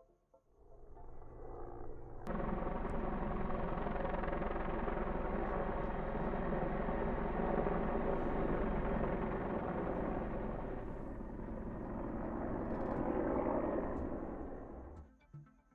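Helicopter flying, a steady rotor and engine drone. It swells in, jumps suddenly louder about two seconds in, holds, then fades out near the end.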